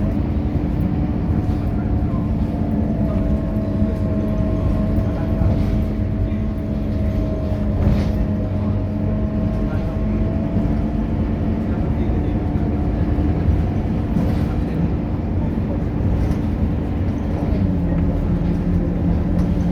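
Scania K230UB city bus diesel engine running while under way: a steady drone with a whine that sags slightly in pitch through the middle and comes back up, and the engine note drops near the end.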